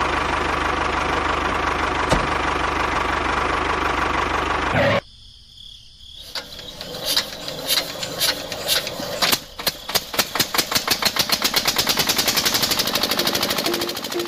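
An engine runs steadily and then cuts off suddenly. Soon after, a regular knocking starts slowly and speeds up into a fast, even chatter, like a small engine picking up speed.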